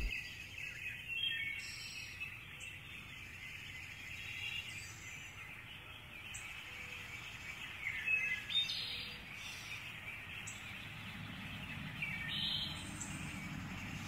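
Forest birds chirping and calling now and then over a steady faint high hiss of forest ambience.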